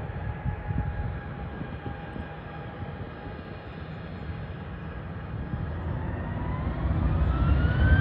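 Boeing 737-800 jet engines running at low power with a steady whine over a low rumble; about six seconds in, the whine rises in pitch and the rumble grows louder as the engines spool up for the takeoff run.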